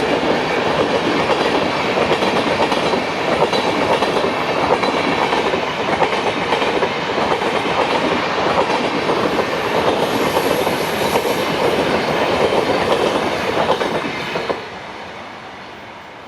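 Rajdhani Express passenger train passing at speed, its wheels clattering steadily over the rail joints. The sound falls away abruptly near the end.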